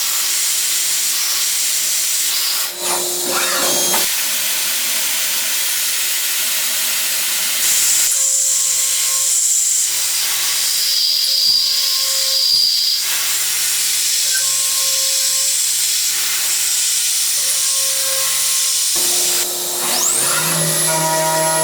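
Steady loud hiss of metal-machining noise, changing abruptly several times; near the end a high whine rises quickly and then holds.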